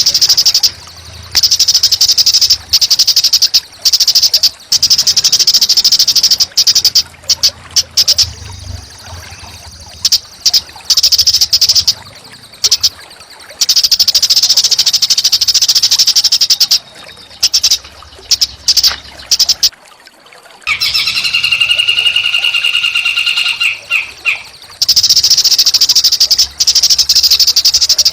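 Recorded small songbirds singing loud, rapid, high trills in bursts of a few seconds with short breaks between them. About two-thirds of the way through, a lower pulsing call with a few steady pitches takes over for several seconds.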